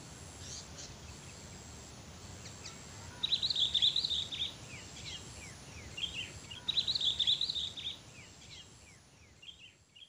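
Small birds chirping and twittering, with two louder bursts of rapid chattering song about three and seven seconds in, over a steady low outdoor background noise.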